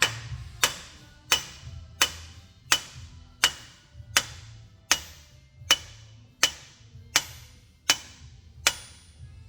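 Hammer tapping on metal in a steady rhythm, about thirteen sharp strikes roughly every 0.7 seconds, each with a brief metallic ring.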